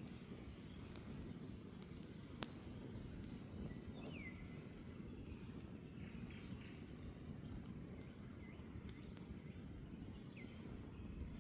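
Campfire crackling with scattered sharp pops, the loudest about two and a half seconds in, over a low steady rumble. A bird gives short falling chirps about four seconds in and again near the end.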